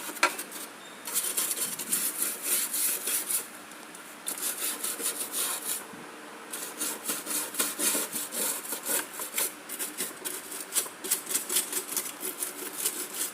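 Quick back-and-forth scrubbing strokes on a washing machine's surface as it is cleaned by hand, in three runs with short pauses about three and a half and six seconds in.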